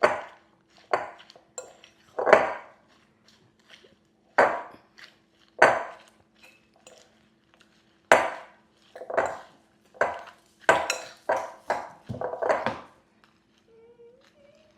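Serving utensils knocking and scraping against a salad bowl as a dressed salad is tossed: a string of irregular clinks, thickest near the end.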